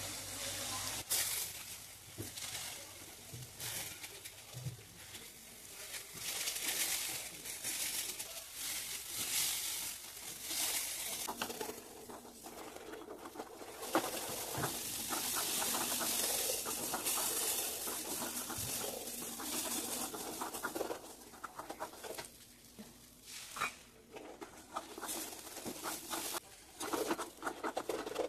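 Onion-tomato masala paste roasting in a kadai, sizzling while a wooden spatula stirs it and scrapes against the bottom of the pan in short irregular strokes.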